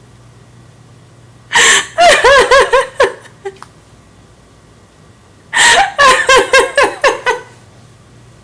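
A person laughing hard in two fits, each about a second and a half long, of rapid, high 'ha' pulses, the second fit starting about two seconds after the first ends.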